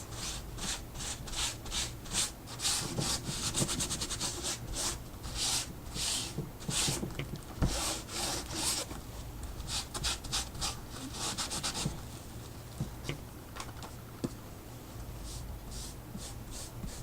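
An art tool rubbed in repeated scratchy strokes over the artwork's surface, in quick back-and-forth runs, easing off about three quarters through and picking up again near the end.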